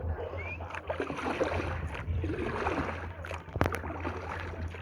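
Water splashing and sloshing around a kayak as it is paddled, with a single sharp knock about three and a half seconds in.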